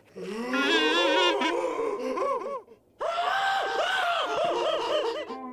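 Cartoon characters laughing in two long bouts, with a short pause a little before the middle.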